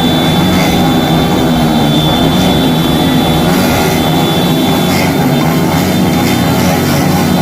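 Motorcycle engines running loudly and steadily, a continuous dense drone with no letup.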